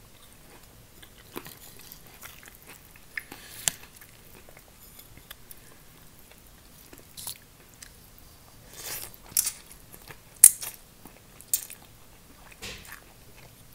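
Close-miked eating sounds of funchoza glass noodles with chicken: quiet chewing with wet mouth smacks and clicks. In the second half the sounds become louder and more frequent as mouthfuls of noodles are taken in.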